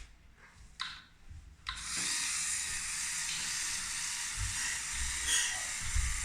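A few clicks, then the homemade robot-airplane's small electric motor starts up about two seconds in and runs with a steady, hissy whir.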